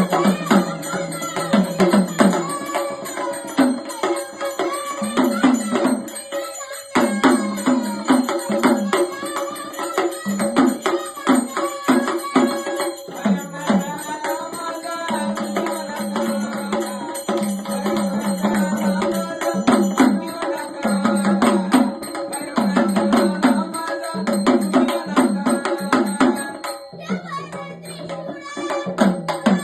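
Marathi devotional folk song to Jyotiba, in gondhal style, with quick percussion strokes over a steady drone note and a winding melody line. The music thins briefly about seven seconds in and again near the end.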